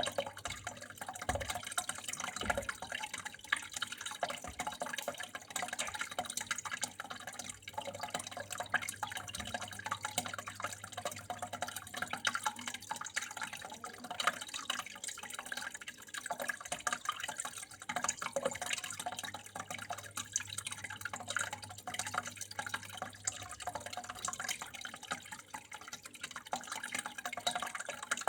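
Water flowing and splashing steadily, full of small drips and trickles, with a faint steady low hum underneath.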